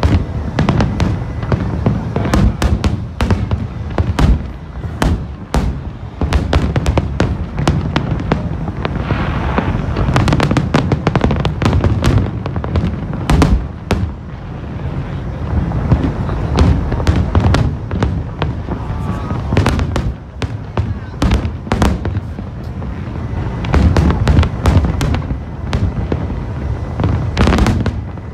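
Aerial fireworks display: a dense, irregular barrage of sharp bangs and crackles from bursting shells, over a heavy rumble.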